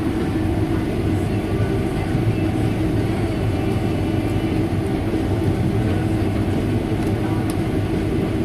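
Harvest machinery engine running steadily at an unchanging speed, a continuous loud drone.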